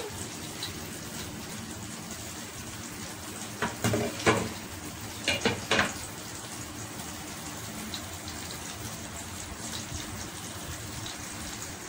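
Ampalaya omelette frying in a nonstick pan under an upturned plate: a steady, even sizzle, with a few short knocks about four and five and a half seconds in.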